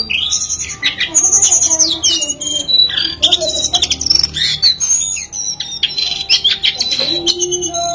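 A jongkangan (brown cingcoang) singing non-stop: a rapid, varied run of chirps, trills and gliding whistles with hardly a pause.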